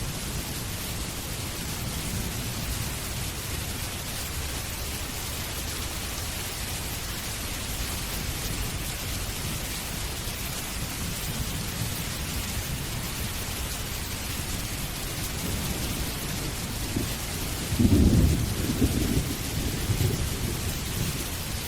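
Steady rain falling, with a low rumble of thunder throughout that swells into a louder roll about eighteen seconds in and dies away over a few seconds.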